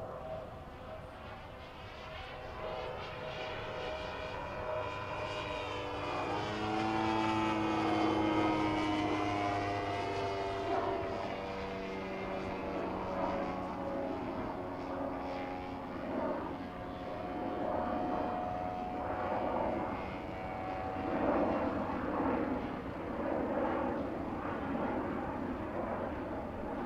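Gas-engined giant-scale radio-controlled Yak-54 aerobatic model airplane in flight, its engine and propeller running continuously with a pitch that rises and falls as it passes and manoeuvres. It is loudest about eight seconds in and again around twenty-two seconds.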